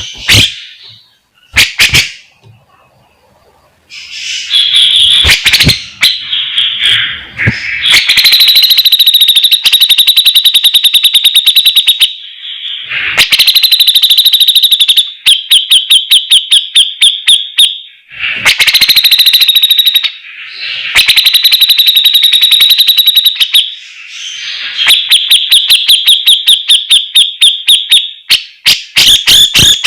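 Grey-cheeked bulbul (cucak jenggot) singing loudly in long runs of very fast repeated notes, the rattling 'besetan' delivery, each run lasting a few seconds and broken by short pauses.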